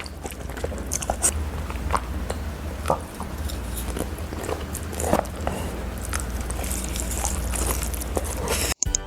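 Close-miked eating sounds: a person biting and chewing food, with scattered small crunches and mouth clicks over a steady low hum. The sound cuts off suddenly near the end and music starts.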